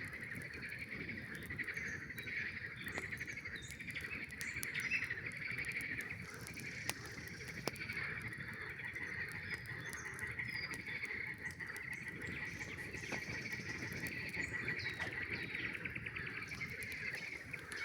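A dense frog chorus trilling steadily, with a few sharp crackles from a campfire.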